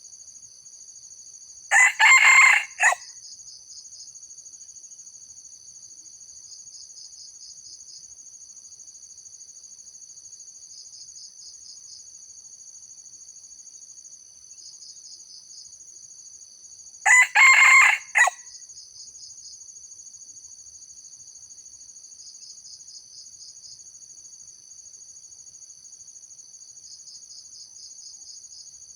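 Junglefowl rooster crowing twice, each crow short and clipped, about two seconds in and again some fifteen seconds later. Underneath, a steady high insect drone with rhythmic pulsing chirps every few seconds.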